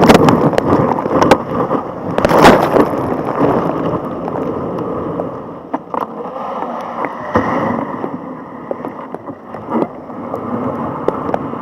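Water rushing and splashing around a kayak in the surf, with two loud surges near the start and about two and a half seconds in, then a steady rush that slowly eases off.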